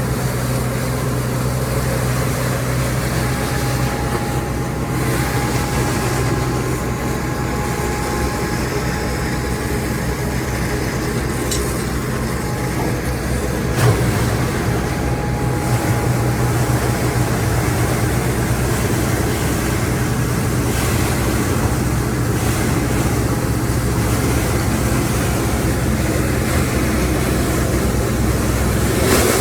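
Sweeper vacuum truck's diesel engine running steadily, with one sharp knock about halfway through.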